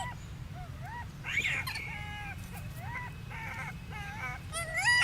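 A monkey giving a run of short, high-pitched calls, each rising and falling in pitch, about one to two a second, with a louder call near the end.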